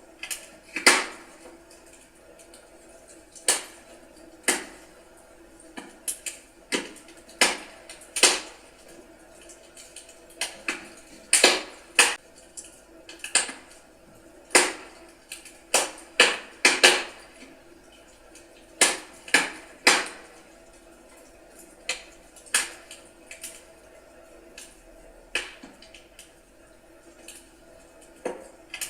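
Wood fire crackling: burning logs giving off irregular sharp pops and snaps, about one or two a second, some much louder than others.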